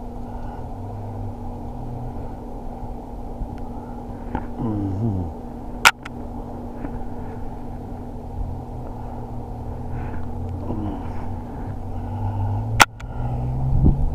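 Vehicle engines running with a steady low hum, and a vehicle's pitch falling as it drives off about a third of the way in, with a fainter one near the end. There are two sharp clicks, one near the middle and one near the end.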